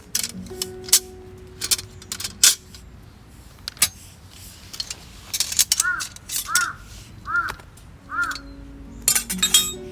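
Metal gear clinking and rattling as it is handled, in sharp scattered clicks. In the middle a bird calls four times, evenly spaced, over faint background music.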